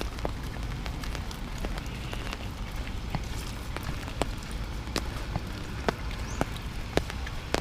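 Steady rain with individual drops ticking sharply and irregularly.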